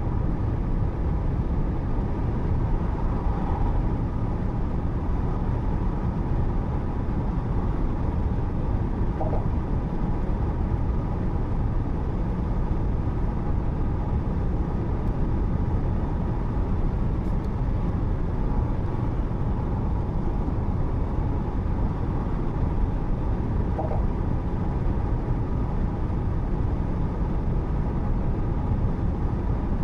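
Steady low rumble of a car driving on the highway: road and engine noise picked up by a dashcam inside the car.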